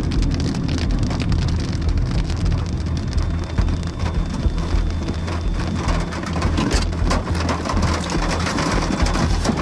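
Heavy wind-driven thunderstorm rain: many sharp drop hits over a steady low rumble.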